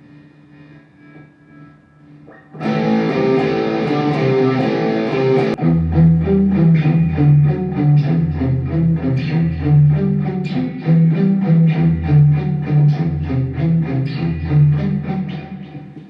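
Electric guitar played through a Mooer GE100Pro multi-effects processor preset: a faint ringing tone, then loud playing that starts abruptly about two and a half seconds in, with a deep low part joining about three seconds later, fading near the end.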